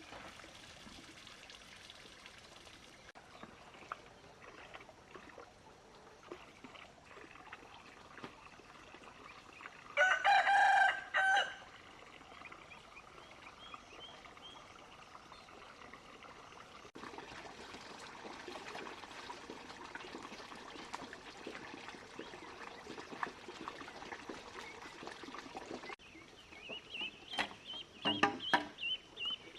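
A rooster crows once, about ten seconds in. Near the end a run of high, quick chirps starts, repeating about three times a second, with a few sharp knocks among them.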